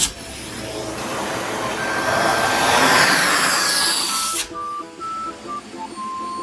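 Vacuum cleaner running with a loud, even rushing noise that swells and then cuts off abruptly about four seconds in, over background music of short electronic tones that carries on alone afterwards.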